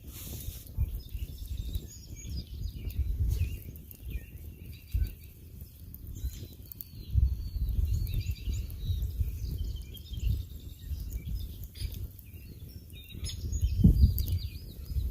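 Small birds chirping and twittering repeatedly, short high calls overlapping one another, over a low rumble that swells near the end.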